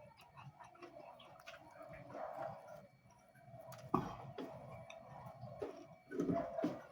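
Close-up mouth sounds of a person eating: chewing and lip smacking with scattered wet clicks, a louder one about four seconds in and a burst near the end, over a faint steady hum.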